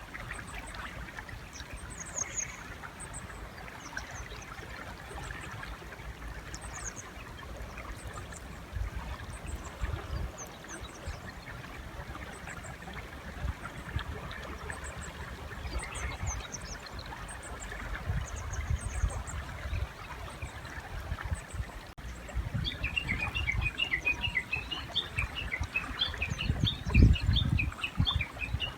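Birds calling by a river over the low, steady rush of the water: thin, high chirps at first, then from about two-thirds of the way through a fast run of short chattering notes from a Japanese bush warbler. A low thump comes near the end.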